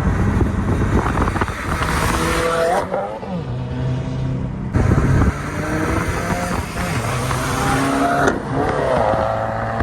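Car engine revving hard and accelerating, its pitch rising several times, with abrupt jumps between short clips.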